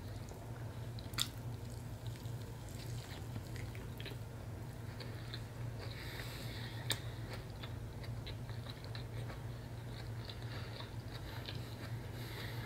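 Close-up mouth sounds of a person chewing a soft, wet catfish sandwich: small wet clicks and smacks, with two sharper clicks, about a second in and about seven seconds in. A steady low hum runs underneath.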